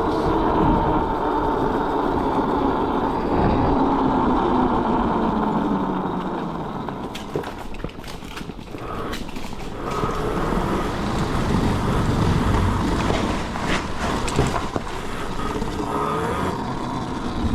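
Dragster mini bike's motor whining and dropping in pitch as it slows, over a rumble of wheel and road noise. Scattered clicks and knocks come in the middle, and near the end the pitch rises again as it speeds up.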